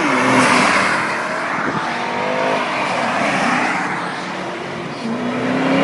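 Sports car exhaust as cars accelerate hard past. One engine note rises and then fades away over the first few seconds. Near the end another car's engine swells up loudly.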